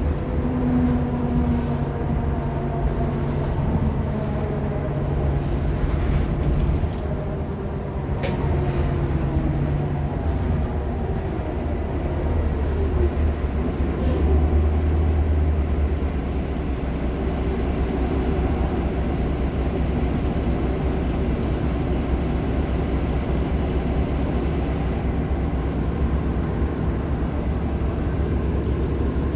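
Nova LFSA HEV articulated hybrid bus, with a Cummins ISL9 engine and Allison H50 EP hybrid drive, running: a steady low engine drone, a drive whine that falls in pitch over the first dozen seconds, and a faint high squeal near the middle.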